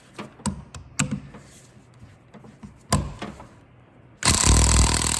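A few sharp metallic clinks of tools, then, about four seconds in, a power tool starts up loudly on the nut at the top of the front strut, running with a rapid rattling pulse.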